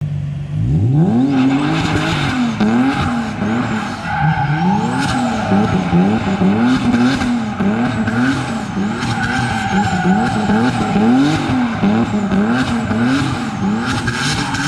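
Turbocharged Nissan 370Z engine revving hard, its pitch climbing about a second in and then swinging up and down again and again, with tyres squealing as the car drifts.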